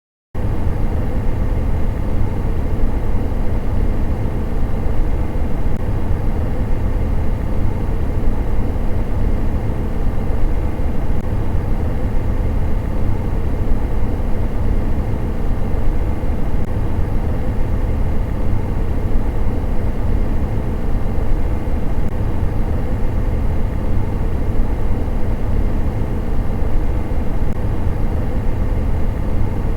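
Electric fan running steadily: an even rush of air noise, heaviest in the low range, with a faint steady hum; it starts abruptly a moment in.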